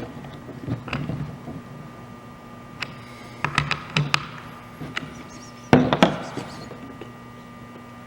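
Scattered knocks and clunks of the pole chainsaw's hard parts being handled and set down during assembly, loudest as two knocks about two thirds of the way in, over a faint steady hum.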